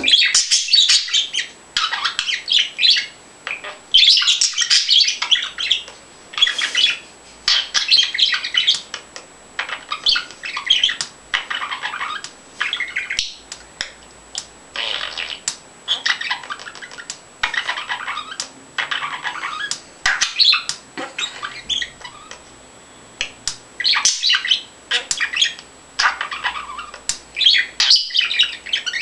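Pet bird chattering at its own reflection in a mirror: rapid warbling chirps and squawks in bursts of a second or two, with only brief pauses.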